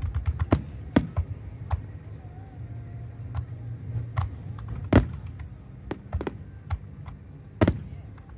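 Aerial fireworks shells bursting, sharp separate bangs about every second or so with the loudest about five seconds in, over a low steady hum.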